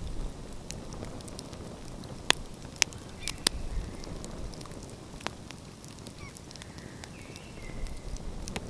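Wood fire crackling, with a handful of sharp pops over a steady low rumble of surf. A few faint short bird calls come in, one held briefly near the end.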